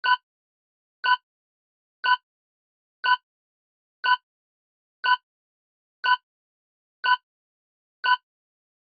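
Countdown timer sound effect: a short pitched tick once a second, nine ticks in all, counting down the answer time.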